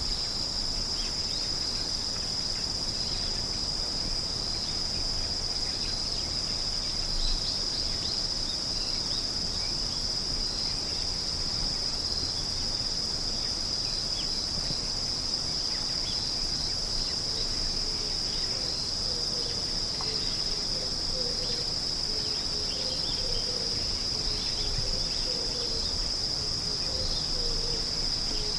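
A chorus of insects trilling without a break at one steady high pitch. Fainter, lower chirps join in the second half.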